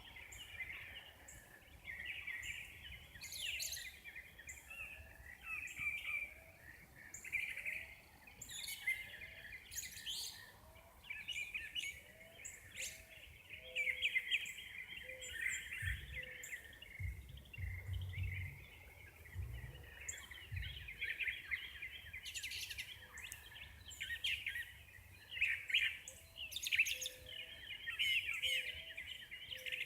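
Many birds chirping and singing at once, a dawn chorus, with a short low note repeating about once a second beneath it. A few low rumbles come in the middle.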